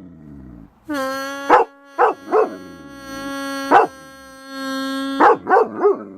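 German Shepherd barking in short loud barks, with a quick run of barks near the end, over a long steady buzzing tone from a prank noise-maker toy that starts about a second in.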